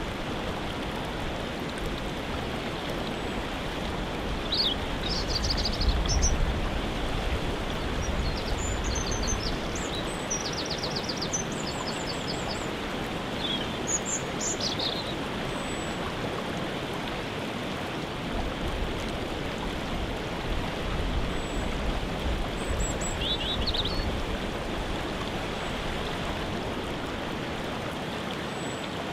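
Steady rush of a waterfall, with small birds chirping in short high phrases now and then over it.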